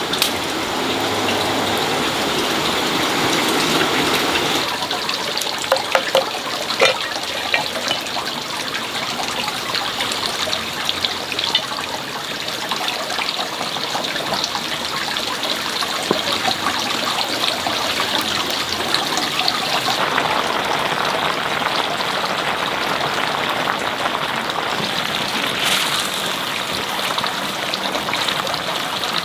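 Running water flowing steadily, with a few small knocks about six to seven seconds in.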